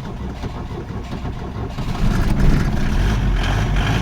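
Ford Sierra 2.3 diesel being cranked on the starter and catching about two seconds in, then running louder and rougher. A cold start after standing several days that does not fire at once, which the owner puts down to glow plugs not heating well.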